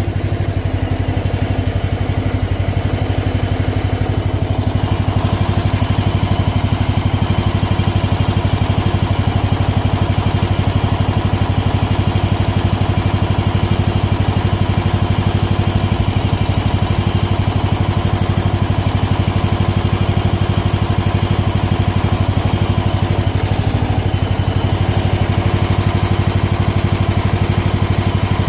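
Small mini-excavator engine running steadily with a constant low hum, just after being started.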